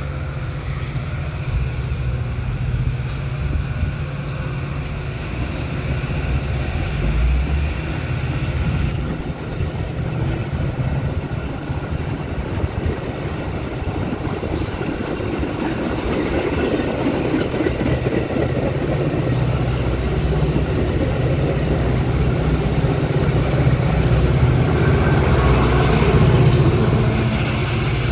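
Metra commuter train of stainless bilevel coaches passing close by, a steady rumble of wheels on rail. It grows louder toward the end as the diesel locomotive pushing at the rear of the train comes nearer.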